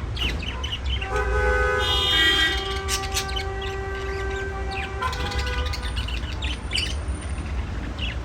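Budgerigars chirping and chattering in quick, sharp calls, over a steady held tone lasting several seconds at a time and a constant low hum.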